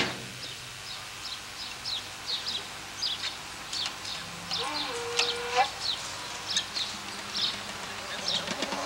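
Small birds chirping: short, high, downward-slurred chirps repeated irregularly, two or three a second, with one lower, drawn-out tone about five seconds in.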